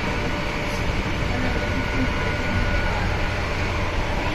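Renfe train running along the rails, heard from inside the carriage: a steady low rumble, with a faint high whine about a second and a half in.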